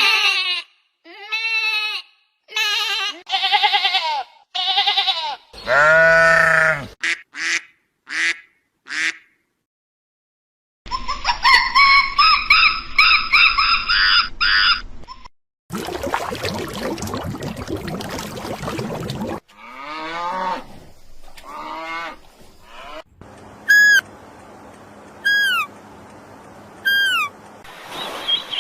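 A string of different animal and bird calls spliced one after another: a series of short, pitched honking calls about a second apart, then a dense chorus of many birds calling together, a few seconds of rough noise, and near the end a clear chirp falling in pitch, repeated about every second and a half.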